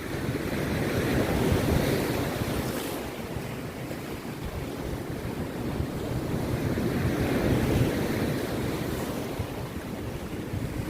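Rough sea surf breaking on a beach, swelling twice as waves come in, with wind buffeting the microphone.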